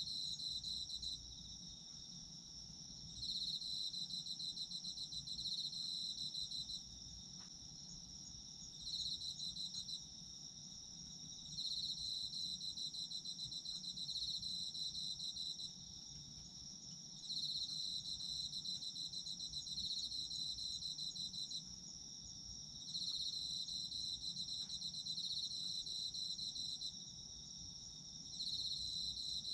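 Autumn crickets singing. One keeps up a steady high-pitched trill, while another trills in spells of a few seconds broken by short pauses.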